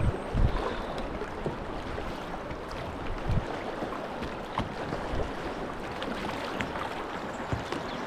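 Rushing river water, with wind buffeting the microphone in a few low thumps.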